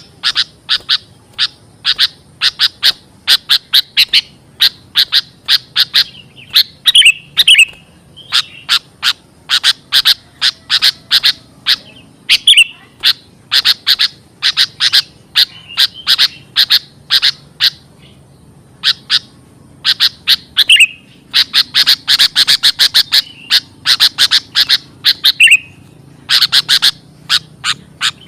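Sooty-headed bulbul (kutilang) calling: rapid runs of sharp, high chirps, about four a second. The runs are broken by short pauses and now and then a brief downward slurred note.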